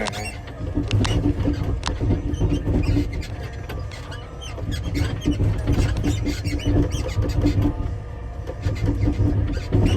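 Front loader engine running and rising three times as the machine is worked, a steady hum coming in with each rise, with scattered clicks and rattles throughout.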